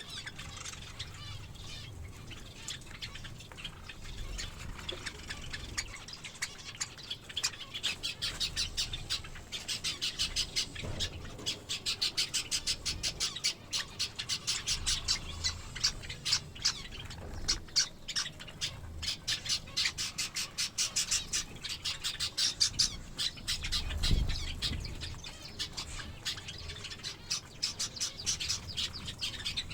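A flock of pet finches, Java sparrows among them, chirping and squawking in quick, overlapping short calls that grow busier and louder after the first few seconds. A dull low knock comes about three quarters of the way through.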